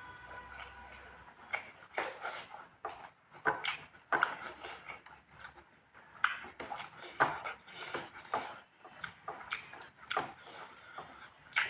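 A person eating spicy pork close to the microphone: irregular wet chewing and lip-smacking sounds, a few every second.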